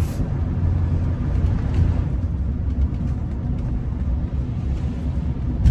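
Steady low rumble of engine and road noise heard inside the cabin of a Rolls-Royce Silver Spirit while it is driven.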